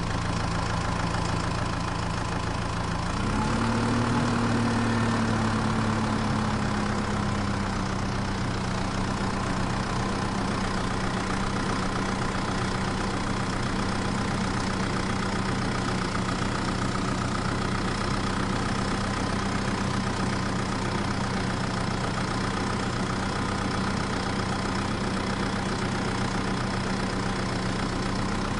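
Tractor engine idling steadily. About three seconds in it revs up briefly, then settles back to an even idle.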